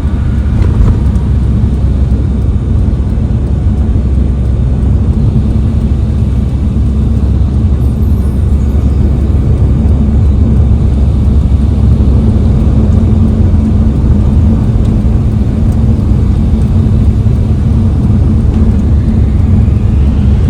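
A car being driven at steady speed: a constant low rumble of engine and tyres on the road.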